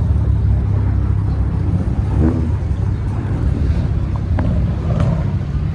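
Car engine running at idle, a steady low rumble, with faint voices and a few light clicks over it.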